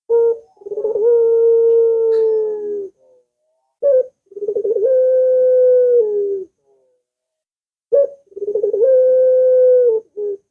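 Puter (collared dove) cooing: three calls, each a short opening note followed by a long drawn-out coo of about two seconds. It is a lure call, played to get caged puter doves that are lazy or still learning to call.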